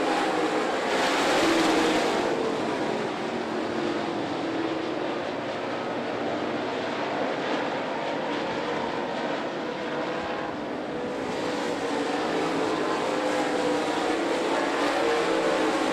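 A field of dirt late model race cars racing, several engines overlapping and rising and falling in pitch as they pass. The loudest pass comes about a second and a half in.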